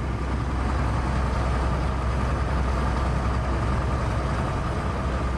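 A heavy vehicle's engine running steadily, a low drone with a faint steady whine above it.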